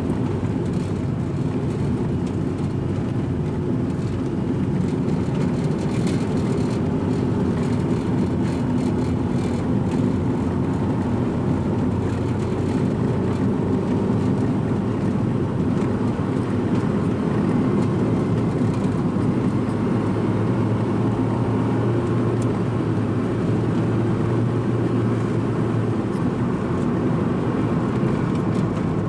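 Strong coastal wind buffeting the microphone: a loud, steady low rumble that never lets up.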